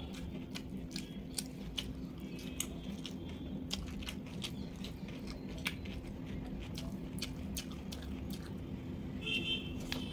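Close-miked eating sounds: wet chewing and repeated sharp lip-smacking clicks as a mouthful of rice and curry is chewed, over a steady low hum.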